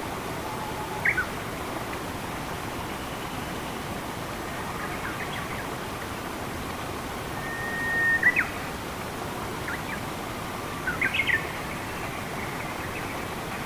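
Steady rushing water of a forest stream, with short bird chirps every few seconds; about eight seconds in, a bird holds a single whistled note and then gives a few quick chirps.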